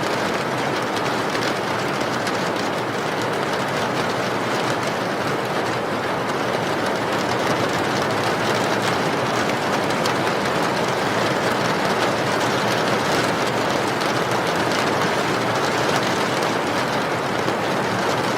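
Heavy rain falling steadily, an even, dense hiss with fine pattering of drops.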